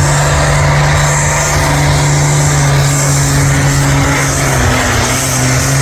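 Pulling tractor's engine running loud and steady.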